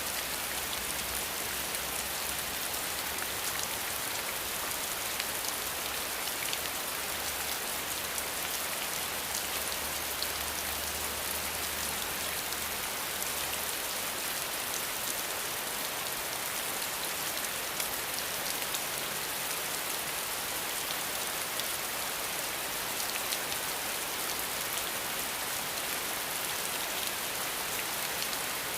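Steady rain falling, a dense even hiss with many small drop ticks. A faint low rumble sits underneath for the first half and returns softly near the end.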